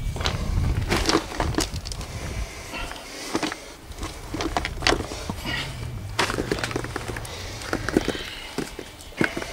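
Irregular knocks, clinks and scrapes of hand tools and work on railway track, with a faint low engine hum for a few seconds in the middle.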